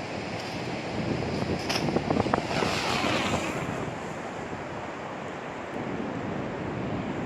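Strong wind buffeting the microphone over the steady wash of ocean surf, louder for a second or so about two seconds in.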